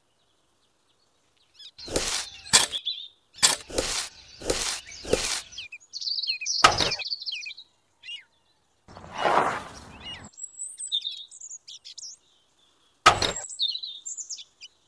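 Birds chirping in short high calls, over a series of sharp knocks and taps, about six close together early on and two more later. About two thirds of the way through there is a short rushing noise lasting about a second.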